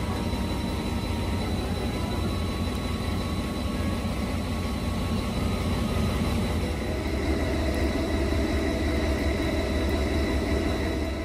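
Steady low rumble of a train standing at a station platform with its engine running, a few faint steady tones over it. The rumble cuts off abruptly at the end.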